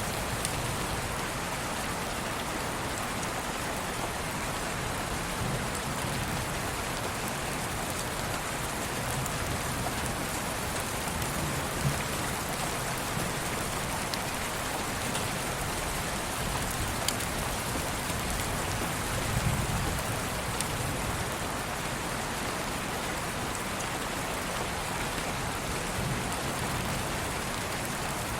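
Steady rain ambience: an even hiss of rainfall with scattered drop ticks and a soft low rumble swelling now and then.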